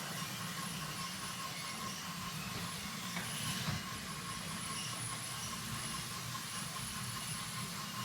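Several battery-powered toy trains running together on a wooden track layout: a steady whir of small electric motors and wheels rolling, with a brief click about three and a half seconds in.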